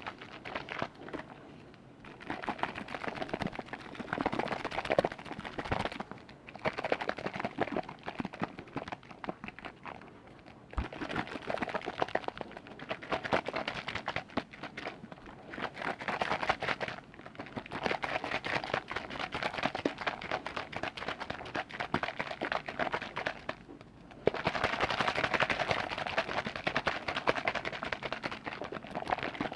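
Close-up liquid sounds: liquid being moved, bubbling and crackling in a container near the microphone. It comes in stretches of several seconds, each followed by a short pause.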